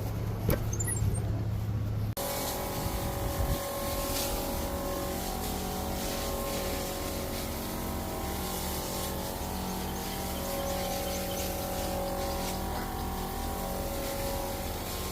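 Small gasoline engine of lawn-care equipment running at a steady speed. It comes in abruptly about two seconds in.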